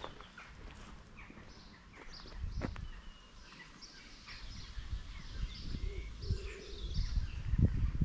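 Small birds chirping and singing in short phrases, with low thumps and rumble on the microphone building near the end.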